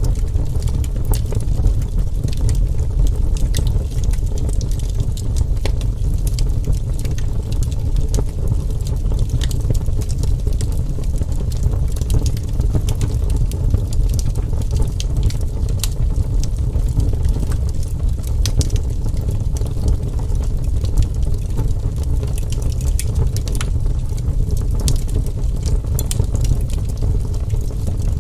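Wood fire crackling, with irregular sharp pops and snaps over a steady deep rumble.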